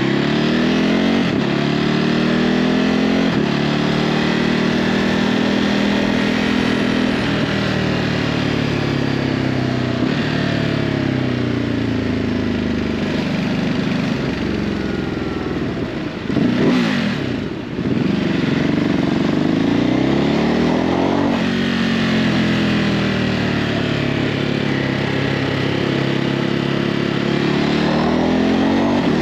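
Ducati Hypermotard 950's L-twin engine through its stock exhaust while riding, its pitch rising with each pull through the gears and falling back again, over and over. A brief louder burst comes about halfway through, followed by a short dip.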